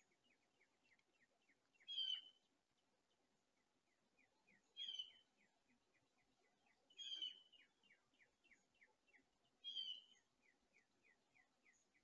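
A bird calling: a short, harsh call repeated four times, about every two and a half seconds. Between the calls runs a faint, fast series of ticks at about four a second.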